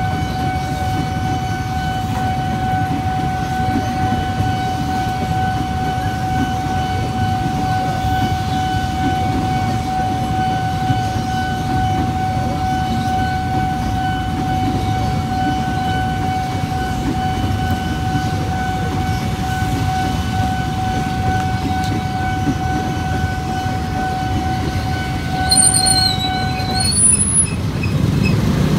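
KRL Commuter Line electric train passing through a level crossing, with the crossing's warning alarm sounding one unbroken steady tone that stops about 27 seconds in. A brief high, wavering squeal comes near the end.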